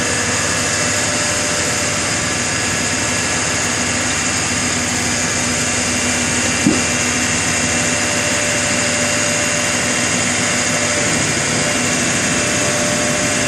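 Engine running steadily: a constant hum with a few steady tones, and a single short click about halfway through.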